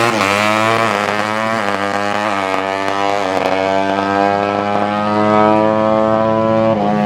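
Tuned 200cc underbone (bebek) drag-race motorcycle engine held at high revs, a loud steady drone whose pitch wavers a little over the first few seconds and then holds level.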